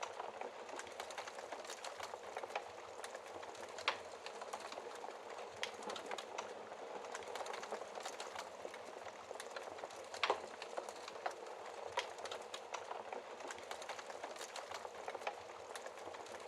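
Wood fire burning in a fireplace: a steady soft hiss with constant small crackles and snaps, and a few louder pops, the loudest about ten seconds in.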